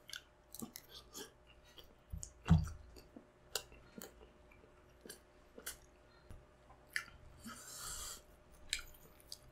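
Close-up chewing of a mouthful of balut with chopped chili: soft wet mouth clicks and smacks, with one dull thump about two and a half seconds in and a short hiss near the end.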